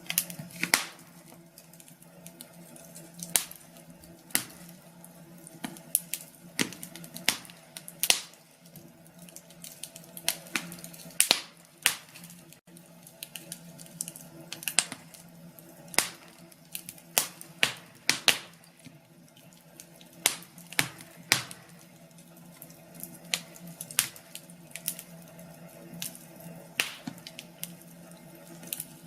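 Wood fire in a fireplace crackling, with irregular sharp pops, a few of them loud, over a low steady hum.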